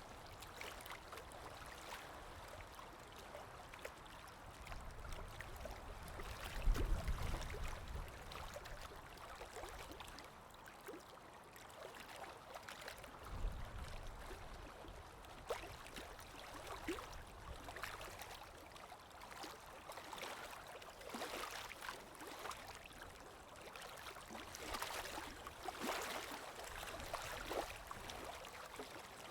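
Water lapping and splashing gently against a shore or boat, with wind; low gusts swell up about six seconds in and again near the middle.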